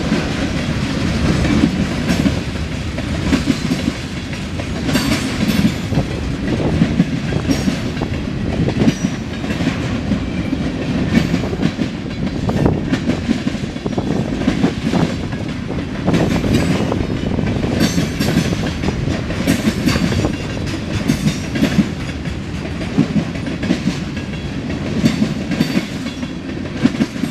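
A CSX mixed freight train's cars rolling past with a steady rumble, their steel wheels clicking and clanking over the rail joints in a quick, irregular clatter.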